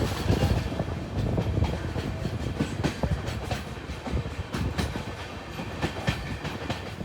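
Passenger train running at speed, its wheels clattering irregularly over rail joints above a low rumble.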